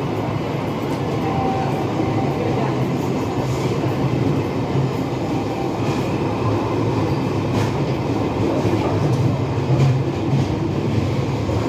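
Indian Railways express passenger train moving along the track: a steady rumble of wheels and coaches with a few faint clicks.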